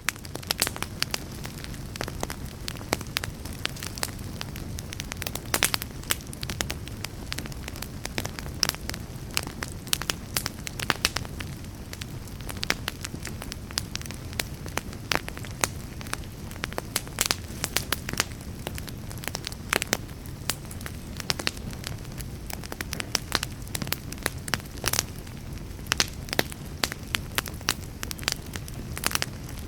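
Wood fire in a fireplace crackling steadily: frequent sharp pops and snaps over a low, even rush of flame.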